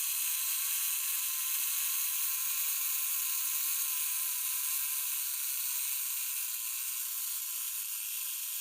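A steady, high-pitched hiss with no deep sound under it, easing slightly in level near the end.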